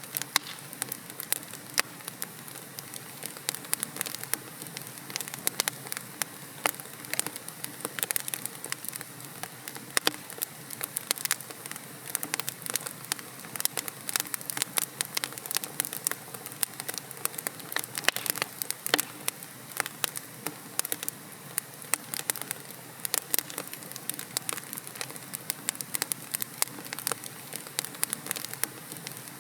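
Wood logs burning in a fireplace, crackling with many sharp, irregular pops and snaps over a steady low hiss of the flames.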